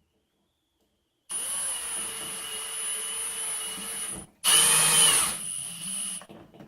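Electric drill-driver running twice to drive panel screws: a steady run of about three seconds, then after a brief pause a louder, shorter run whose pitch drops as the motor slows under load.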